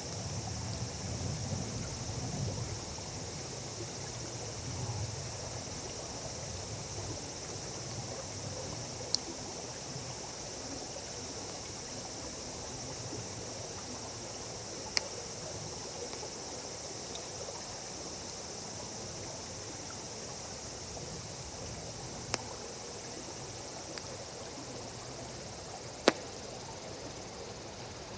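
Wood campfire burning with a handful of sharp pops a few seconds apart, over a steady high chorus of insects.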